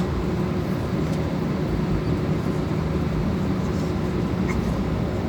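Airbus A320 jet engines running at low power, a steady low rumble with a constant low hum.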